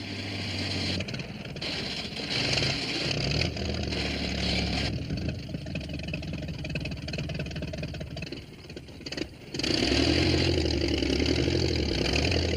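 Tractor engine running and revving while the tractor is stuck in a landslide of earth, its pitch shifting in steps. There is a short dip about nine seconds in, then the engine picks up again.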